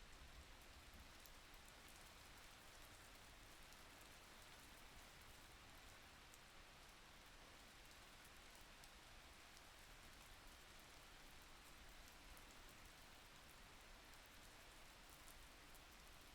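Faint, steady rain: an even hiss of falling rain with light, scattered drop ticks.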